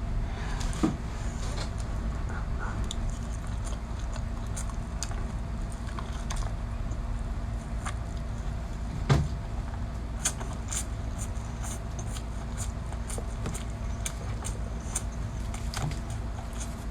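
Crunching and chewing of spicy crab legs: irregular sharp cracks and clicks of shell, coming thicker in the second half, with one louder crack about nine seconds in, over a steady low hum.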